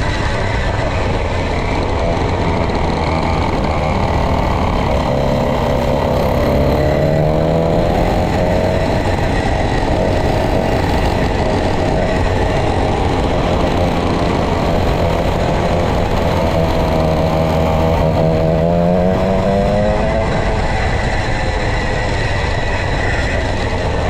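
Vintage racing kart's 135cc Sudam engine running hard at speed. Its pitch climbs twice as it accelerates, about a third of the way in and again near the end, and drops back in between.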